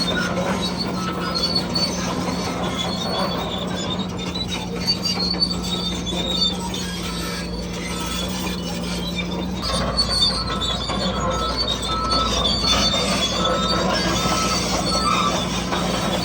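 Radio-controlled construction models working: a steady electric motor and gearbox whine, with on-and-off high metallic squeaking and clatter.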